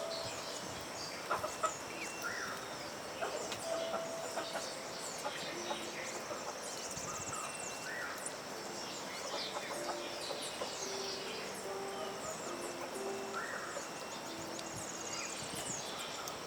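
Domestic chickens clucking, with small birds chirping repeatedly and a steady high hum in the background.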